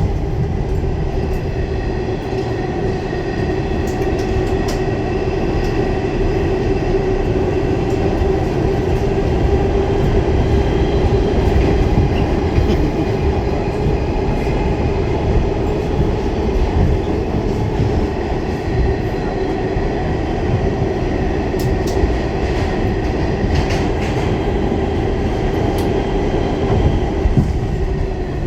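Pullman Standard R46 subway train heard from on board, running steadily between stations: a continuous rumble of wheels on rail, with a few faint clicks.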